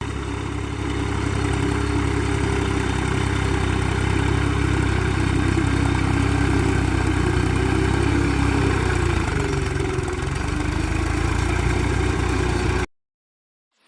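An engine running steadily at idle, with a low, even hum. It cuts off abruptly about a second before the end.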